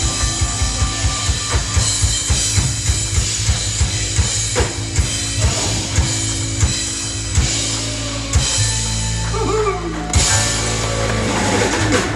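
Live band playing an instrumental passage: a drum kit keeps a steady beat over sustained bass and other instruments.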